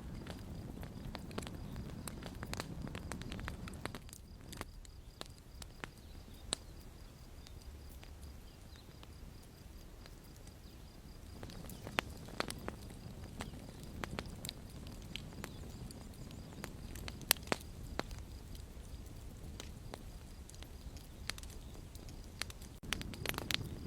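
Campfire crackling: irregular sharp pops and snaps from the burning wood over a soft low rumble of the flames, with one louder pop about two-thirds of the way through.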